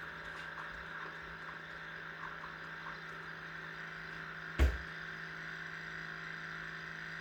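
Small water pump in a Mainstays single-serve coffee maker running with a steady hum after the reservoir has run out of water. A single short knock about four and a half seconds in.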